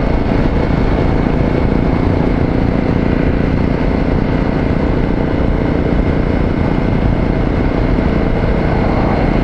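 Single-cylinder dual-sport motorcycle engine running at a steady cruise while riding, with an even, unbroken rumble and a faint steady whine.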